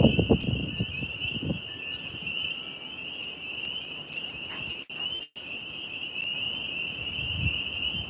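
Steady, high-pitched chorus of calling night animals, pulsing evenly without a break. Wind rumbles on the microphone for the first second and a half, and the sound cuts out twice briefly around the middle.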